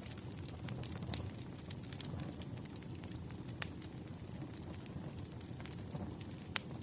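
Wood fire burning: a steady low rumble of flames with scattered sharp crackles and pops from the burning firewood, one louder pop a little past the middle.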